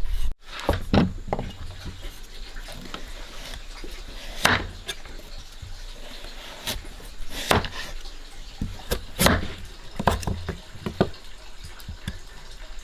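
Scattered small clicks, taps and knocks of hands working with kitchen utensils, irregular and a few each second, over a low background.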